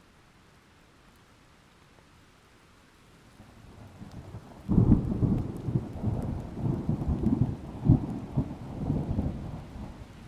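A thunderclap over faint steady rain. A low rumble builds from about three and a half seconds in, breaks into a loud clap near five seconds, and rolls on in several surges before dying away near the end.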